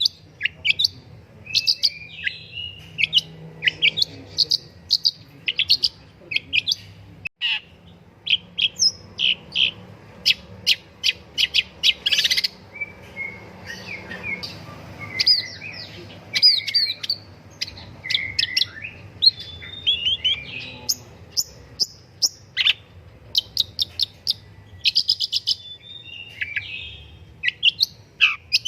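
Long-tailed shrike (pentet) singing energetically: a rapid, varied run of sharp chirps, clicks and short whistled phrases with brief pauses, a lively song used to provoke other shrikes into singing.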